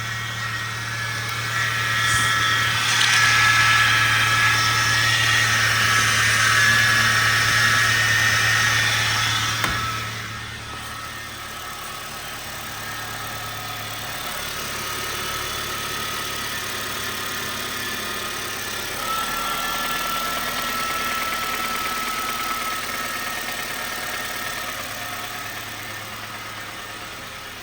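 Honda Fit GD3's four-cylinder engine running after a valve adjustment, louder and with a high whine or hiss for the first ten seconds or so, then settling to a quieter steady idle. The loud noise is one the owner puts down to the crankshaft pulley, though he then doubts it and suspects a knock.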